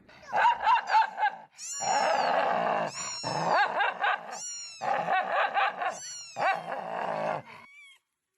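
A pet animal giving a series of long pitched calls that bend up and down, in about five bouts with short breaks between them.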